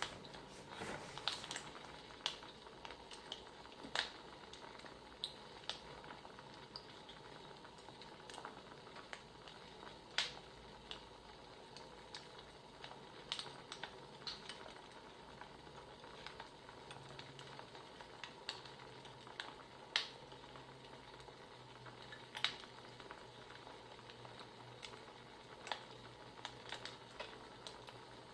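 Wood fire crackling: irregular sharp pops, a second or so apart, over a steady low hiss.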